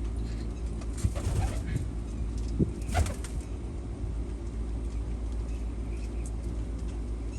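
Domestic pigeons cooing, with brief flaps of wings at about one second and three seconds in, over a steady low hum.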